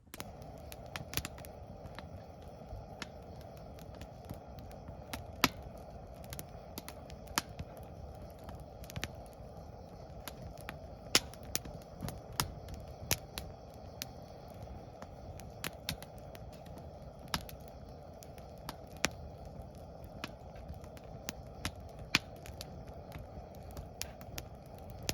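Wood fire burning in a stainless steel Solo Stove, crackling with irregular sharp pops of varying loudness over a steady low rushing sound.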